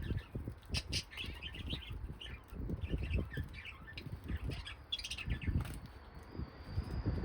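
A flock of caged pet birds chirping busily in many short high chirps, with frequent low thumps and rustling among them.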